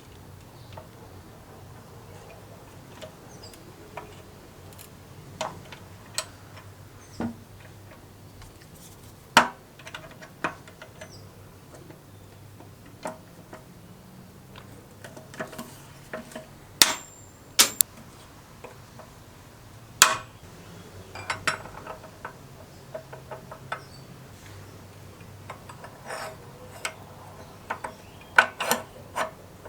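Scattered light clicks and knocks of hard objects being handled, a few with a short metallic ring.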